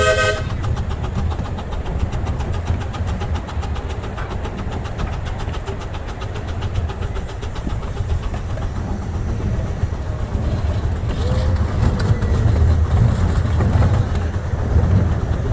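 Double-headed miniature steam train running, heard from the front car: a steady low rumble of the train on the track with a fast, even beat from about two to seven seconds in. A steam whistle blast cuts off right at the start.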